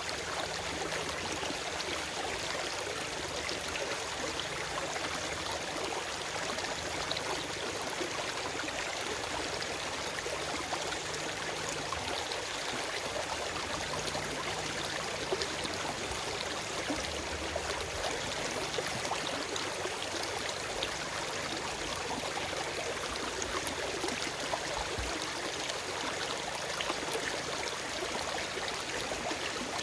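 Forest stream flowing steadily over rocks, a continuous rushing with fine splashing and gurgling and no birdsong.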